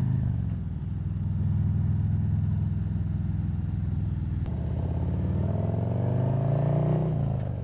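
Harley-Davidson Road Glide's Milwaukee-Eight V-twin engine running under way, as heard by the rider's microphone. The revs climb for a couple of seconds, then fall away near the end.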